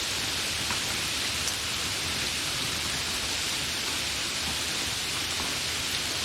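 Steady, continuous rain falling, an even hiss with a few single drops ticking faintly through it.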